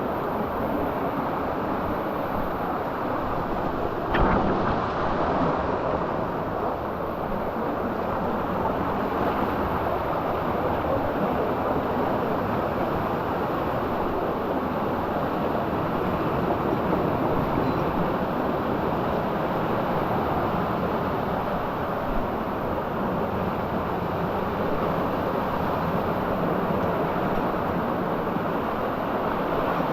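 Steady rush of a canyon stream's running water, with a single knock about four seconds in.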